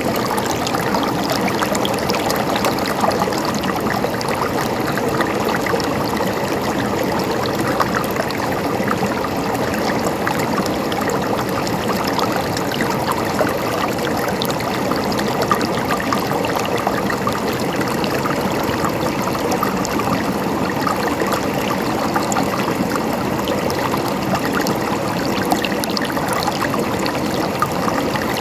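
Mountain stream running and gurgling over rocks, a steady rush of water with small splashes throughout.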